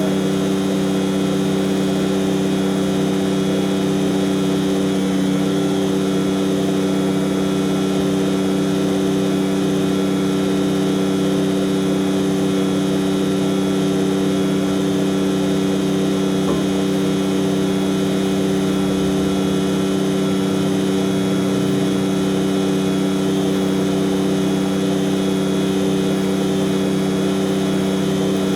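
Heavy tanker truck's diesel engine running steadily at constant speed, an even drone that does not change.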